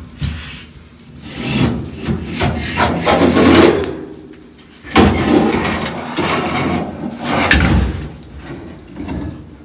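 Steering wheel being worked onto a VW Beetle's steering column by hand: several stretches of dry metal scraping and rubbing, with a sharp knock about five seconds in. The parts are only lightly cleaned and not yet properly oiled.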